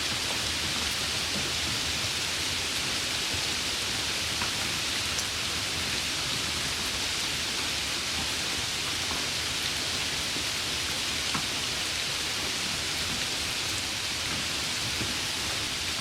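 Steady rain falling as an even hiss, with a few faint ticks of single drops standing out now and then.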